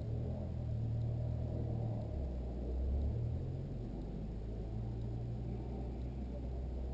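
Toyota GT86 race car's flat-four engine idling, heard from inside the stripped cabin: a steady, low idle.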